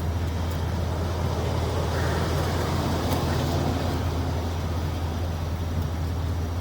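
Steady low hum of an engine running at idle, with a rustling hiss that swells for a couple of seconds in the middle.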